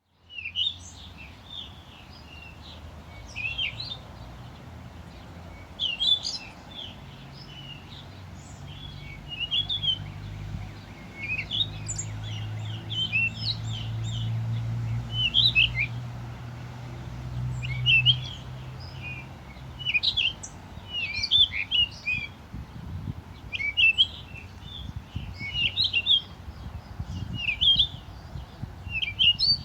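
Small songbirds chirping and trilling in woodland, many quick short calls overlapping throughout. A low steady hum sits underneath for several seconds in the middle.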